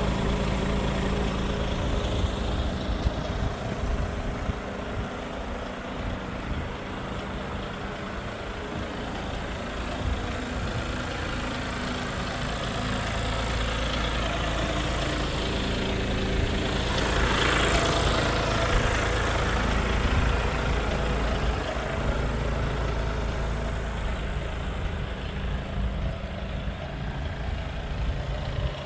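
IVECO Stralis AS440S48 truck's inline-six diesel engine idling steadily. The noise swells louder for a few seconds about seventeen seconds in, then settles back.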